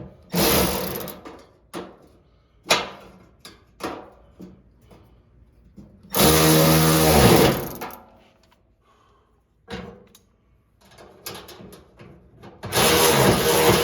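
Clicks and knocks of tools and small parts being handled, with a short burst from a power drill about half a second in. The drill then runs for about a second and a half around the middle. Guitar music starts near the end.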